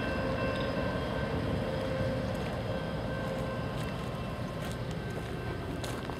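BNSF diesel freight locomotive passing with a steady low rumble and whining tones that fade about halfway through as it moves off. The loaded coal hopper cars behind it go on rumbling by.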